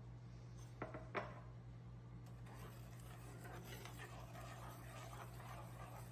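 Two light clinks of a utensil against a dish about a second in, then steady scraping and stirring in a bowl or pan, over a low steady hum.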